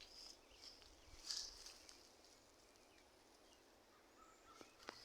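Faint, scattered bird calls from a flock feeding in red tip photinia shrubs: a few short, high chirps, the clearest about a second and a half in, over a quiet outdoor background.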